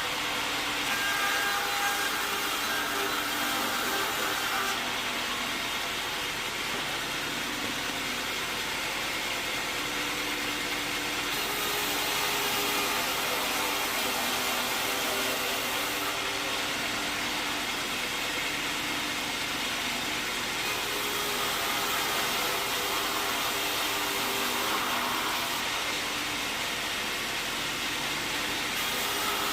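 Sawmill saw running steadily, a continuous machine noise with a few held whining tones that shift in pitch every few seconds.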